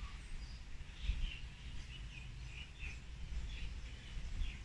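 Birds chirping: short high calls, about two a second, over a low background rumble.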